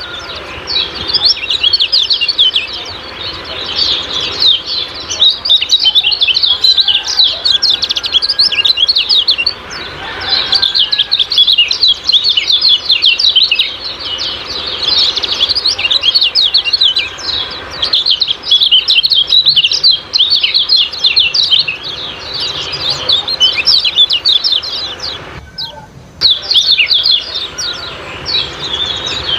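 Kecial kuning songbirds giving rapid, dense 'ciak-ciak' chirps, a quick run of short high notes that pauses briefly twice.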